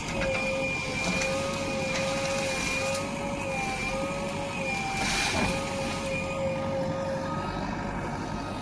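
Diesel earth-moving machinery running, with a steady whine whose pitch wavers slightly. There is a brief louder rush about five seconds in.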